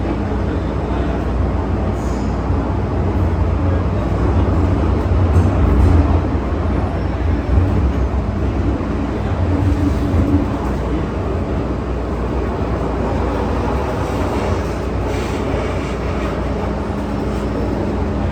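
MTR M-Train metro car running between stations: a steady low rumble of wheels on rail and running gear, with a faint steady hum, swelling a little partway through.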